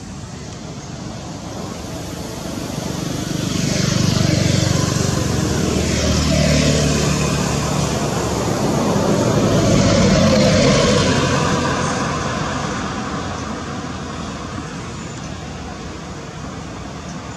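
Motor vehicles passing by: engine and road noise swell twice, the first peaking about four seconds in and the second about ten seconds in, each falling in pitch as it goes past, then fading away.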